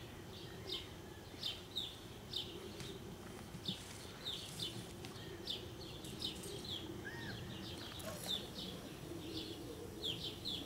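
Small birds chirping in the background: short, high chirps about two a second, over a faint steady low hum.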